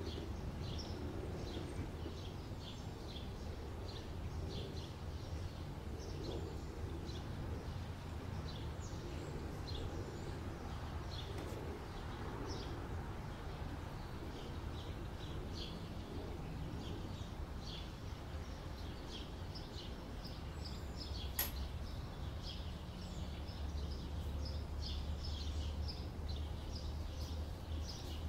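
Small birds chirping in many short, high calls throughout, over a steady low hum, with a single sharp click about 21 seconds in.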